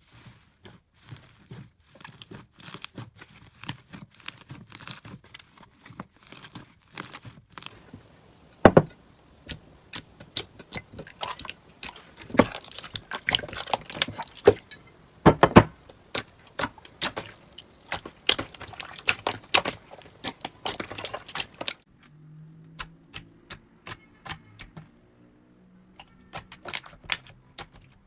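Slime being squeezed, stretched and poked by hand, with many sharp sticky clicks and pops. About 22 s in the clicks grow sparser over a faint low hum.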